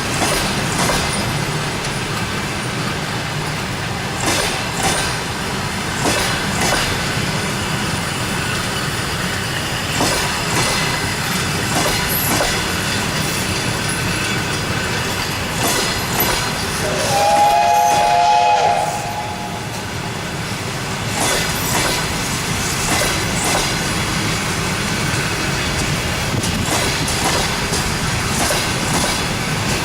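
Passenger carriages of a departing train rolling past, a steady rumble with wheel clicks over the rail joints at uneven intervals. A little past halfway a single whistle of several pitches sounds together, rising at its start and held for about two seconds.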